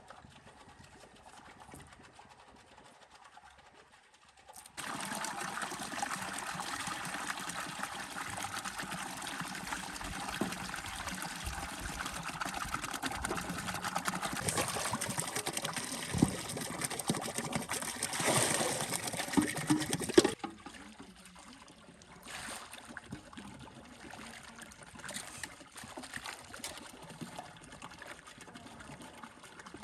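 Water pouring or running steadily, starting suddenly about five seconds in and cutting off about two-thirds of the way through; small faint sounds follow.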